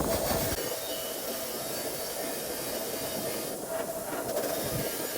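A steady hiss like rushing air, with a faint hum under it and no clear rhythm.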